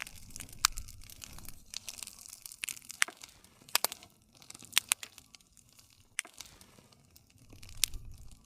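Campfire burning: wood crackling with irregular sharp pops and snaps over a soft low rumble of the flames.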